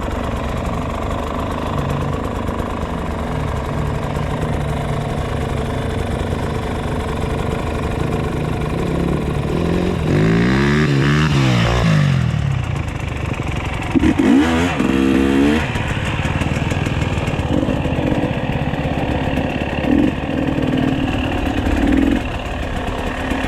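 Dirt bike engines revving as they ride the motocross track, their pitch climbing and dropping through the gears. The loudest bike sweeps past about halfway through and again a few seconds later.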